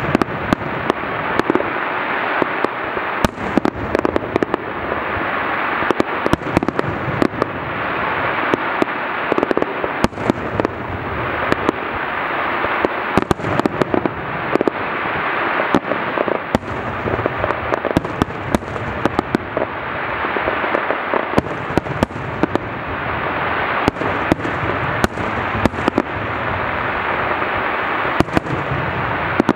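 Fireworks display in a continuous barrage: many rapid, overlapping sharp pops and bangs over a steady crackling hiss, with no pause.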